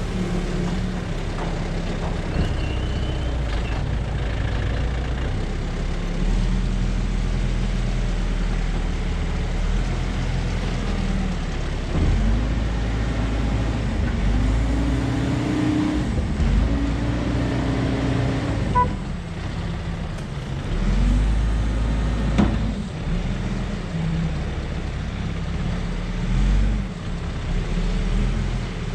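A heavy vehicle engine running, its pitch rising and falling several times as it changes speed, over a continuous low rumble.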